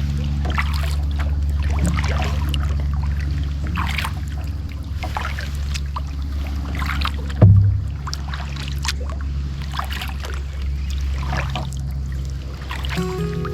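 Kayak paddle strokes, with water splashing and dripping off the blades about once a second and a single hollow knock of the paddle against the hull about halfway through. A steady low hum runs underneath.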